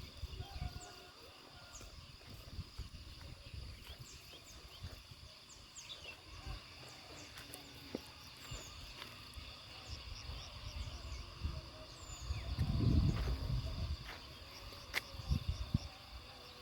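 Rural outdoor ambience: scattered short bird chirps over a steady, high insect drone, with low rumbles of wind or handling on the microphone, loudest about three quarters of the way through.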